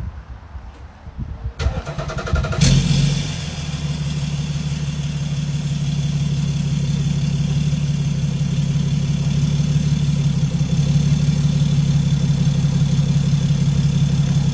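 Deleted 3.0-litre Duramax inline-six turbo-diesel being started through a 4-inch exhaust with an MBRP muffler: the starter cranks about two seconds in, the engine catches with a loud burst, then settles into a steady, deep idle drone.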